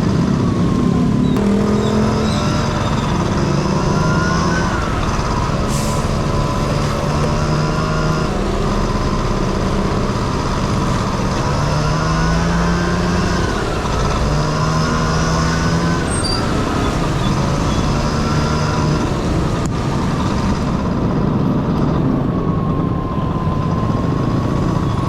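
Honda Dio AF18's 50cc two-stroke single-cylinder engine running under way, its pitch rising and falling again and again as the throttle is worked, over a steady rush of noise.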